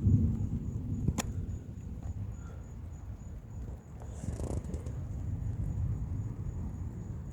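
Thunder rumbling low, loudest at the start and easing off after about a second and a half, with a sharp click about a second in.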